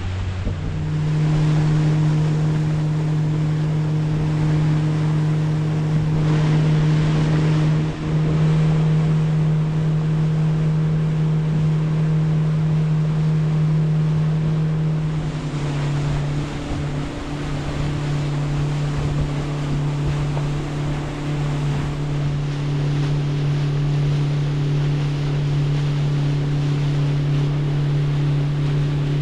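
Boat motor running steadily at speed, with wind and water rushing past. The engine note steps down slightly in pitch about halfway through.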